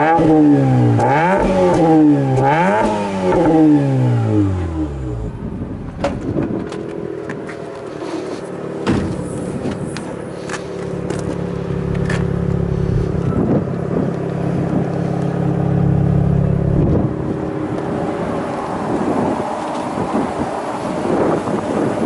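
Mazda RX-8's Renesis rotary engine through an aftermarket muffler: revved three times in quick succession at the start, then running steadily at idle, with a louder, steadier hum for several seconds midway.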